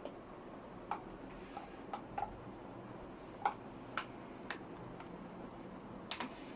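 A series of about ten light, sharp clicks and taps at uneven intervals, the loudest about midway and a quick pair near the end, like small hard parts being handled and fitted together.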